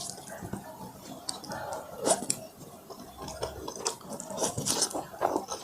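A person biting and chewing food, with irregular sharp crunching clicks and wet mouth sounds.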